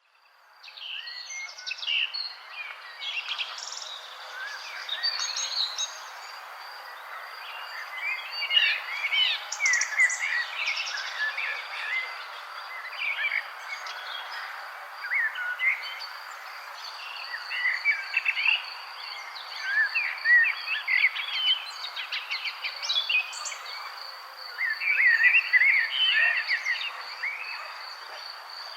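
Many songbirds chirping and singing over one another in quick, overlapping phrases, fading in at the start. Underneath runs a steady, high, evenly pulsing trill typical of a cricket or similar insect, over a soft background hiss.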